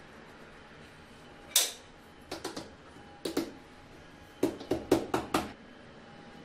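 Irregular sharp clinks and knocks of hard objects striking: a single loud one, then small clusters, ending in a quick run of about six.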